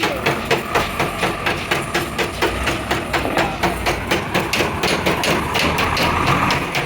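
Hand hammer striking metal again and again in a steady rhythm, about four blows a second, during heavy truck axle repair work.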